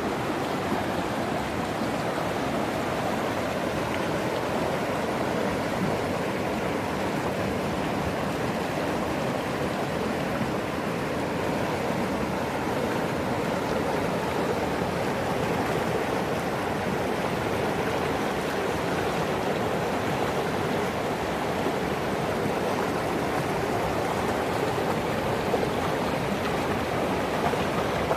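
East Fork San Gabriel River in flood, its swollen storm-fed water rushing past in a steady, unbroken roar.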